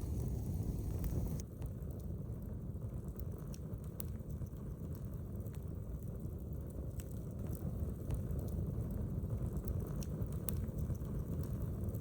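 Outdoor wood fire crackling with scattered sharp pops, over a steady low rumble.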